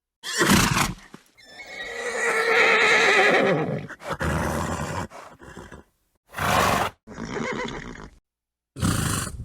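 Horse whinnying: one wavering call of about two and a half seconds, with short, sharp snorts before it and several more in the last few seconds.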